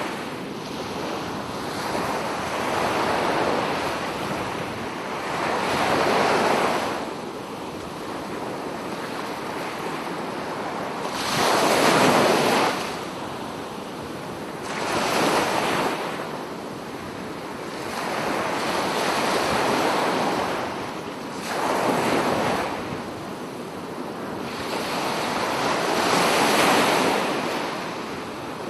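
Sea surf: waves breaking and washing in, the rush of water swelling and falling back every few seconds. The louder breakers come about twelve seconds in and near the end.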